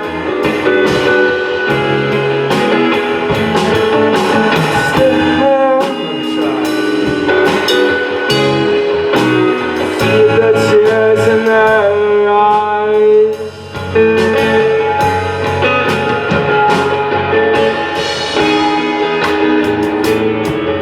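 Live band playing an instrumental passage: guitar over a drum kit with cymbal hits, broken by a brief pause about two-thirds of the way through.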